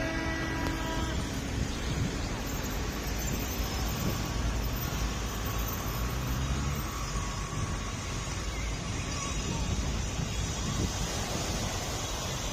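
Steady outdoor rumble and hiss of wind on the microphone mixed with vehicle noise.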